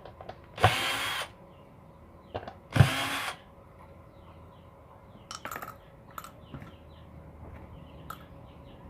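Electric screwdriver run in two short bursts about two seconds apart, backing out the screws of an amplifier casing. A few light clicks and taps follow.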